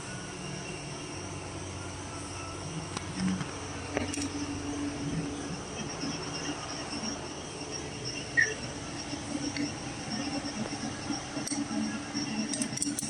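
Nissan Rogue engine running at idle, a steady hum with a constant high-pitched whine, checked for a bad transmission mount that lets the engine move too much. The hum strengthens after about four seconds and grows heavier near the end.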